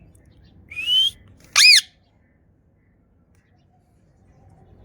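Pet parrot whistling: a short rising whistle about a second in, then a louder arched whistle-squawk that sweeps up and back down.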